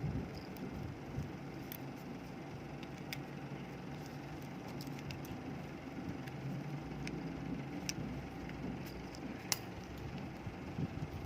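Scattered light clicks and taps, the strongest about nine and a half seconds in, over a steady low background rumble like distant traffic.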